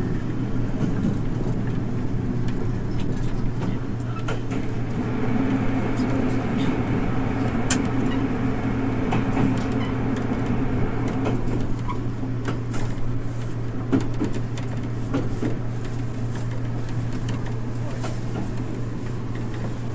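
Diesel railcar running along the line with a steady low engine drone and wheel-on-rail noise, plus a few sharp clicks. The sound gets louder for a few seconds midway as the train passes through a tunnel.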